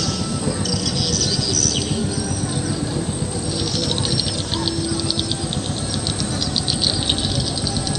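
Small birds chirping and twittering in quick runs, busiest in the second half, over a steady low rumbling background.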